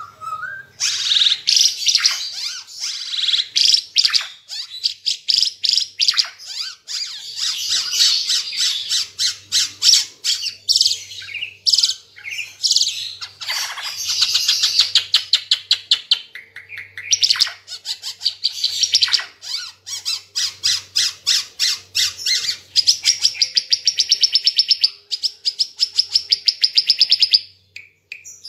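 Ara Timor songbird singing loudly and nonstop: long runs of rapid, evenly repeated high notes in fast trills, broken by swooping calls, with a short pause near the end.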